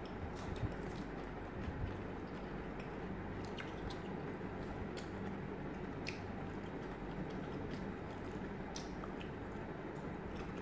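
People chewing food close to the microphone, with scattered short crisp clicks of biting and crunching.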